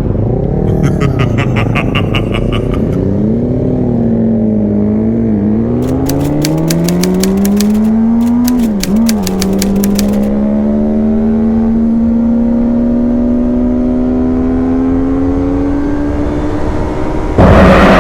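Motorcycle engine under way, revs climbing and dropping sharply at gear changes about five and nine seconds in, then pulling steadily higher in one gear. A loud rush of noise comes in near the end.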